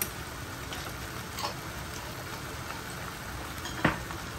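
Mutton kheema frying steadily in a pan, with a few light knocks: one at the start, one about a second and a half in, and a louder one near the end.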